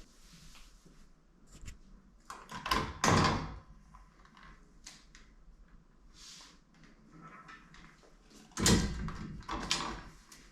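Two bouts of knocking and rattling, one about two and a half seconds in and a longer one near the end, with a few faint clicks between.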